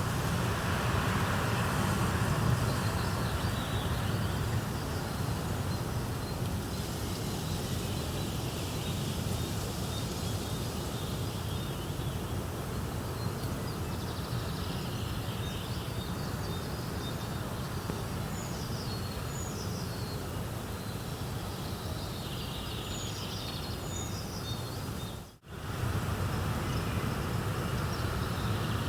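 Steady rushing nature ambience, a low even noise with faint high chirps scattered through it. It cuts out for an instant about 25 seconds in, then resumes.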